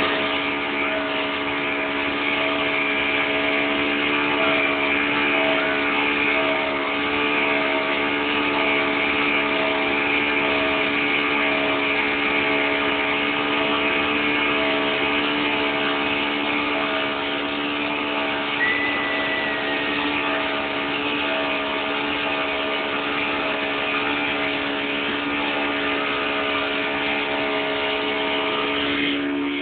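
Motorboat engine running steadily at an even pitch, with a steady hiss over it.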